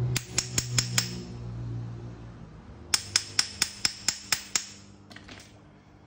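Sharp metallic clicks from a pipe-expanding (swaging) tool working the end of a copper pipe: a few clicks in the first second, then a quick run of about eight at roughly five a second from about three seconds in. A low hum fades out over the first two seconds.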